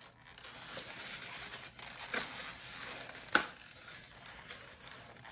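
An egg carton being handled and opened to check the eggs: crinkly rustling with a few sharp clicks, the loudest about three and a half seconds in.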